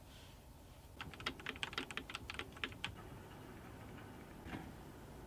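Computer keyboard keys clicking: a quick run of about a dozen presses over two seconds, then a single press near the end.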